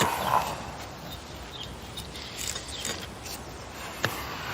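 Light, irregular rustling and scraping of weeding work in garden soil, with one sharp click about four seconds in.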